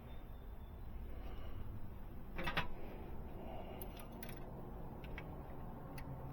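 Hand tools clicking against metal while adjusting a diesel engine's valves: a quick run of sharp clicks about two and a half seconds in, then a few single clicks.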